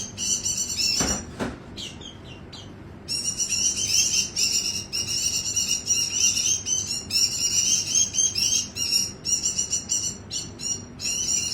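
White-eye singing a fast, continuous, high twittering song in long runs with only brief breaks. There is a low thump about a second in, and the song lulls until about three seconds in.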